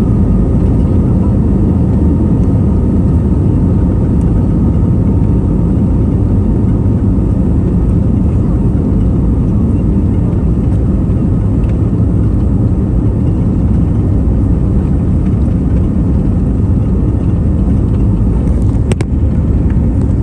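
Loud, steady low rumble of an Airbus A320neo's engines and rushing air, heard from inside the passenger cabin. There is a single sharp click near the end.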